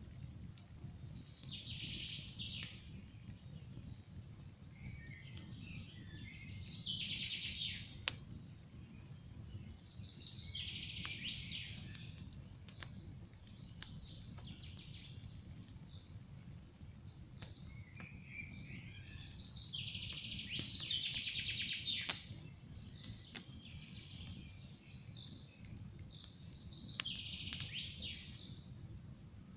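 Campfire crackling with scattered sharp pops over a low, steady rumble of flames, while a songbird sings a phrase every few seconds. The loudest moments are two sharp pops from the fire, about eight seconds in and near the twenty-two-second mark.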